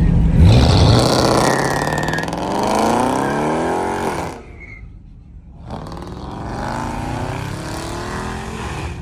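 Car engine accelerating hard, its pitch rising steadily for about four seconds. The sound then drops away abruptly for a second or two, and a second engine rise follows.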